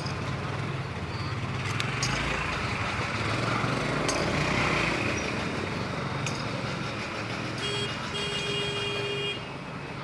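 Engine running steadily: a low hum under a rushing noise, with a few sharp clicks.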